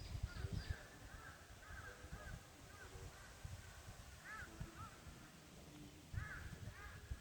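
Birds calling in the forest, a run of short arched notes repeated again and again. Low gusts of wind rumble on the microphone at the start and again near the end.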